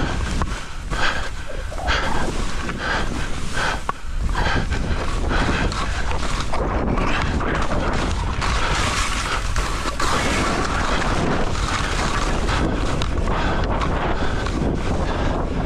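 Wind buffeting the microphone during a downhill ski run, with skis hissing and scraping through snow. The first few seconds hold a string of short scrapes, probably turns, before it settles into a steady rush.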